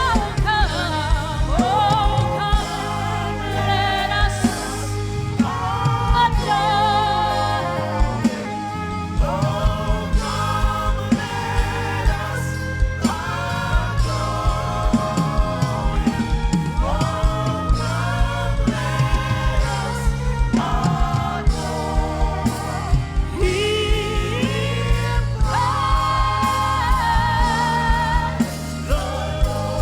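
Gospel worship music: voices singing long, wavering notes over band accompaniment with a steady beat.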